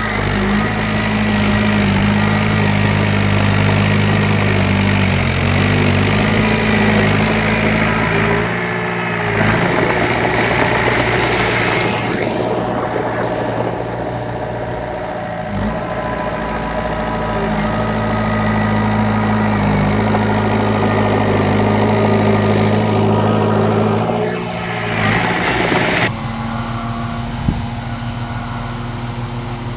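Heavy construction machinery's diesel engine running steadily, the deep hum shifting abruptly a few times.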